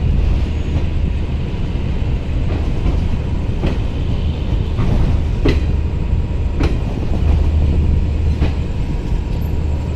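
Moving passenger train heard from its coach doorway: a steady low rumble of the running coach, with the wheels clacking over rail joints about once a second through the second half.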